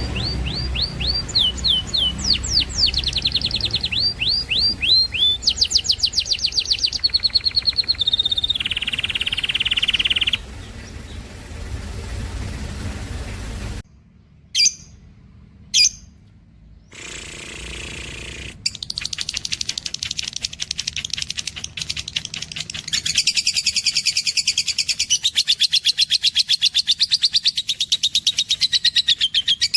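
Canary and lovebird song: rapid repeated whistled trills and chirps, the phrase changing every second or two. About halfway through it drops out for a few seconds, leaving two short chirps, then returns as a dense run of fast chirping.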